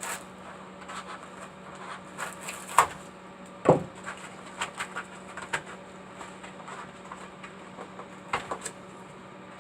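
Scattered handling noises from hand crafting work: irregular clicks, light knocks and rubbing, with two louder knocks a little under 3 s and about 4 s in, over a steady low hum.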